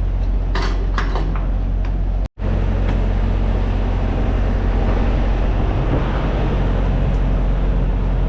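Semi-truck cab noise while driving: a steady low engine and road drone, with a short complete dropout a little over two seconds in.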